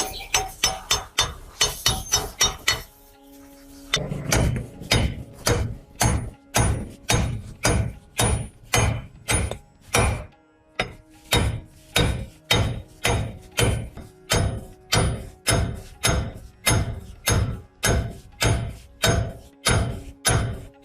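Hammer blows on steel, struck in a steady rhythm of about two a second, each with a short metallic ring. The first few seconds hold a faster, uneven run of strikes.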